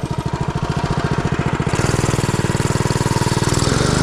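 Mini bike's small single-cylinder engine falls to a slow, chugging low-rev run with each firing stroke heard separately, then revs back up near the end.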